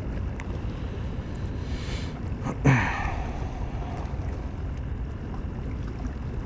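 Steady wind rumble on the microphone over open water from a small boat. About two and a half seconds in comes one brief, sharp sound with a quickly falling pitch.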